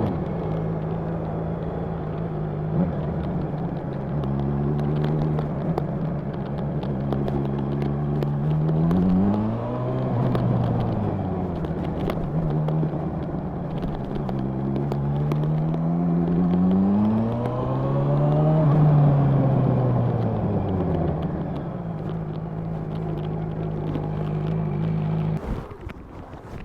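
Honda CB1000R's inline-four engine under way, running at a steady pitch, then rising in pitch twice as the bike accelerates and falling back after each. Near the end the engine sound cuts off sharply.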